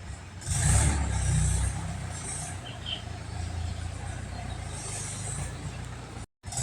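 A truck engine running, louder from about half a second in and then steady, with short hissing bursts over it. The sound drops out for a moment near the end.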